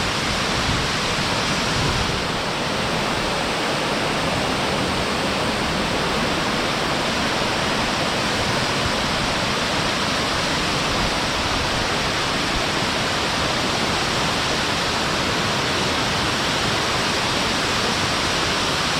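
Waterfall rushing steadily, a constant dense roar of falling water close by.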